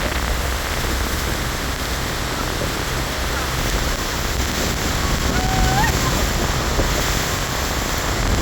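Steady roar of Niagara's Horseshoe Falls and its spray heard up close, with wind buffeting the microphone.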